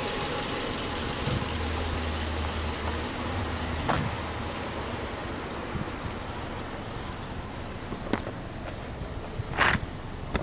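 Subaru Legacy's EJ25 flat-four engine idling steadily, with no revving. A few sharp clicks come near the end.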